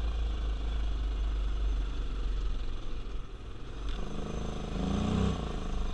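Carbureted ATV engine running under load while pulling up a slope, a low rumble at first. About four seconds in, a clearer engine note comes through and rises in pitch.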